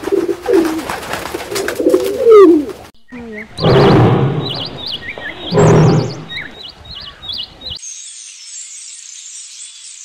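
Rock pigeon cooing, a few gliding coos over the first three seconds. Then two loud, deeper animal calls about two seconds apart, with short high chirps around them, and from about eight seconds a steady high-pitched twittering of small birds.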